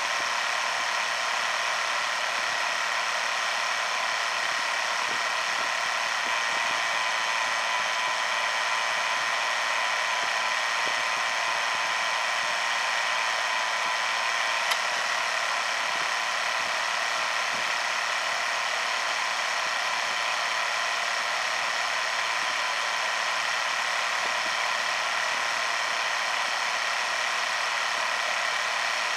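Ram 1500 3.7 L V6 engine idling with a steady whine from the accessory belt drive, which the owner suspects is a bad pulley that starts and stops turning. A single faint click about halfway through.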